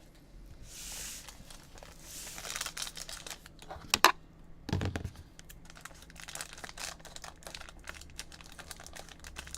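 Trading card pack wrappers being torn open and crinkled, with small clicks and rustles of cards being handled. There is a sharp snap about four seconds in, and a dull thump right after.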